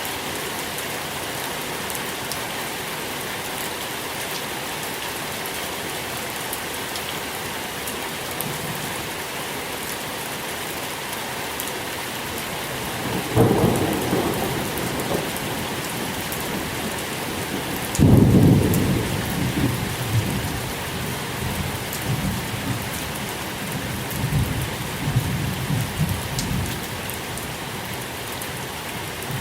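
Steady rain falling, with two rolls of thunder: a rumble about halfway through, then a louder one breaking sharply a few seconds later and rolling on for several seconds.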